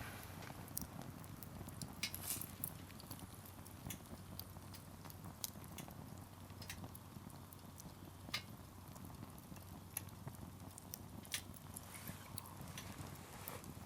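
Wood campfire crackling: irregular sharp pops and snaps from the burning firewood, a few louder ones standing out, over a low steady rumble from the flames.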